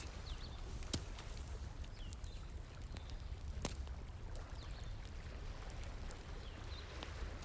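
Wood fire crackling with scattered sharp pops, the two loudest about a second in and a little past the middle, over the steady rush of a flowing stream.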